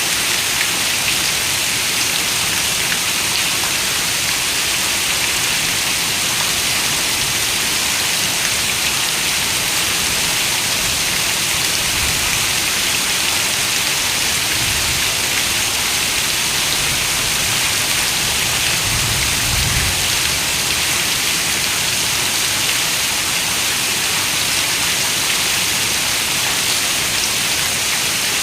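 Steady rain on a window, a dense even hiss, with a few soft low rumbles partway through.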